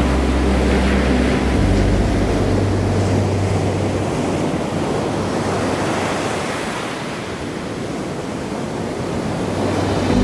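Ocean surf washing: a steady rushing noise that swells and eases. A low steady hum runs under it for the first second and a half.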